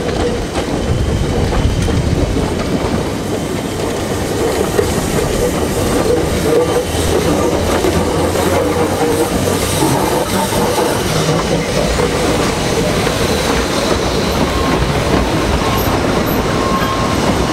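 Narrow-gauge steam train rolling slowly past on a tight curve: the carriage wheels click over the rail joints, with some wheel squeal on the curve in the second half.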